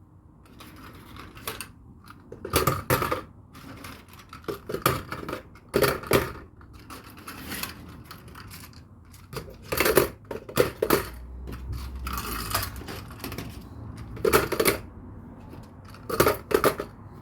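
Hard plastic LEGO pieces clicking and clattering irregularly as they are handled and fitted into the model, with small rustles between the clicks.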